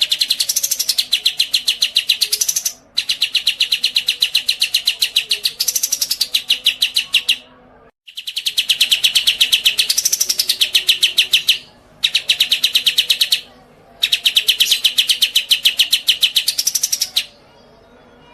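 Songbird singing long, rapid trills of about ten sharp notes a second, in five phrases of one to four seconds with short gaps between them, several with a brief rise in pitch partway through.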